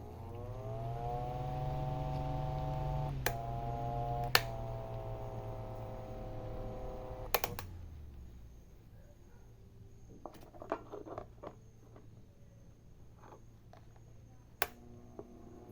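Mondial electric fan motor switched on, its hum rising in pitch as it spins up and then holding steady. Two switch clicks each shift the hum slightly lower, a speed change. After another click the hum fades away as the fan winds down, followed by light handling clicks and one more sharp click near the end.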